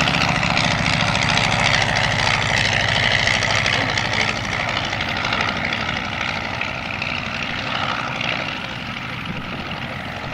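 Propeller aircraft engine running steadily, growing quieter over the second half as it moves off.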